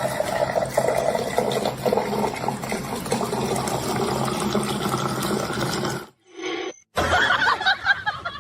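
Water running or splashing, a steady rushing noise that cuts off suddenly about six seconds in; a short, different sound follows, then another clip begins near the end.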